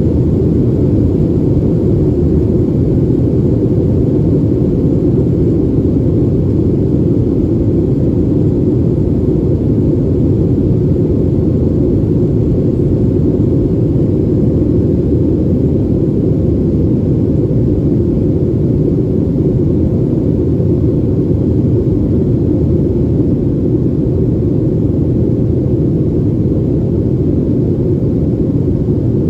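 Cabin noise of a Boeing 737 airliner in flight after take-off: a steady, low rumble of engines and rushing air heard from inside the cabin.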